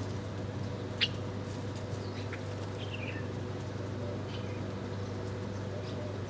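Small birds giving short, scattered high chirps, with a sharp click about a second in, over a steady low hum.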